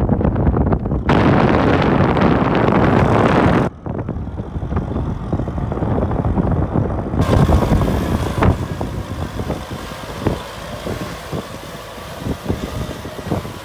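Kubota M6040 tractor's diesel engine running under load while plowing. The sound changes abruptly a few times, and irregular knocks and rattles come through in the second half.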